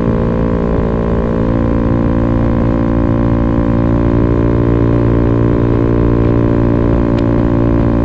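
Italjet Dragster 125 scooter engine running at a steady speed through an Akrapovic racing slip-on muffler with its baffle removed, a loud, even exhaust note with no revving.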